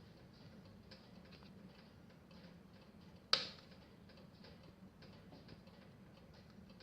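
Wood fire in a stove crackling faintly, with many small ticks and pops, and one loud, sharp crack about three seconds in.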